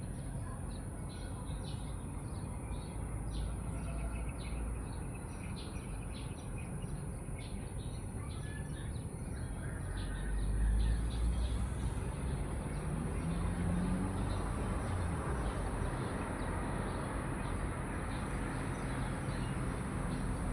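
Many small birds chirping in quick, short calls, thinning out after about ten seconds, over a steady high hiss and a low rumble that swells partway through.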